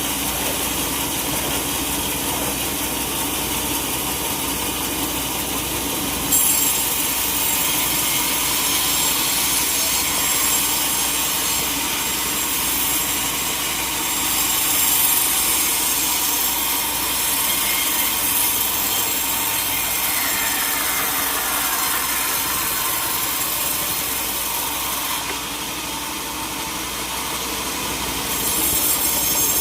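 Sawmill saw cutting through a teak log: a steady machine noise, with a loud high hiss of the cut that comes in sharply about six seconds in, drops back for a few seconds near the end, then returns.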